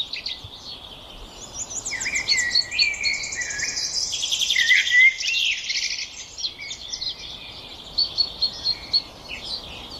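Small songbirds chirping and twittering, with fast trills and short gliding notes overlapping, busiest in the first half.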